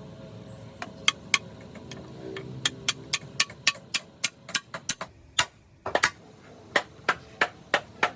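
Hand hammer blows in a steady rhythm, about three a second, each with a short ring. The sound drops out briefly about five seconds in, then the blows carry on.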